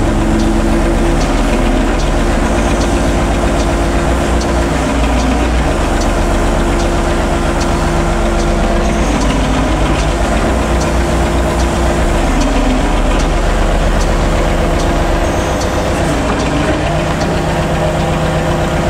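Heavy truck's diesel engine running steadily at low speed, its pitch dipping and recovering several times as the throttle eases off and comes back.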